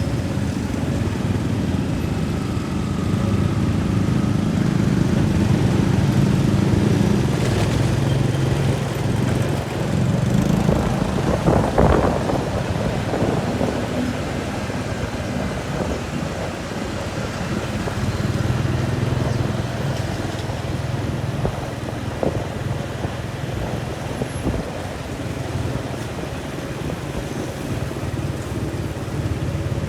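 An engine running steadily, with a low drone that swells briefly about a third of the way in.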